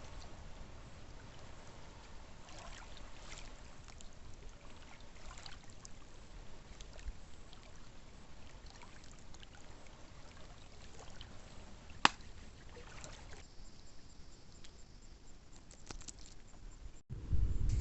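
Faint water trickling and lapping, with scattered small clicks and one sharper click about twelve seconds in. Just before the end the sound cuts off abruptly and a loud low rumble begins.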